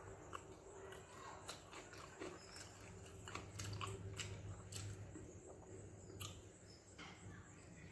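A person chewing and eating a meal of fermented rice (pazhaya sadam) with okra stir-fry, with faint, irregular wet mouth clicks and smacks.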